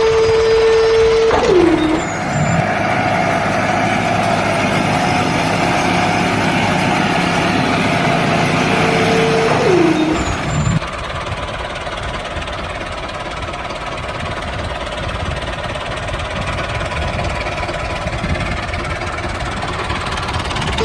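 Small motor running with a steady mechanical hum. Twice, about a second and a half in and again near ten seconds, a high tone falls sharply in pitch, and after about eleven seconds the sound settles into a rougher, lower steady running.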